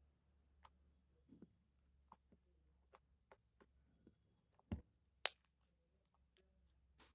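Faint, irregular sticky clicks and pops of a small slime being squeezed and pulled by fingers, with the loudest pop about five seconds in.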